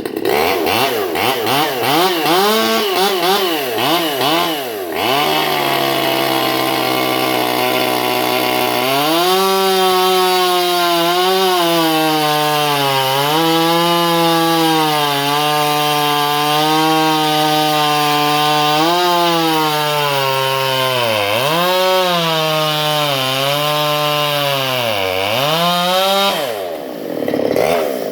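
Stihl 020T top-handle two-stroke chainsaw, rebuilt and West Coast-modified, revving and then cutting through a Douglas fir log under load. Its pitch sags and recovers again and again as the chain works into the wood, and near the end it drops away before revving up again.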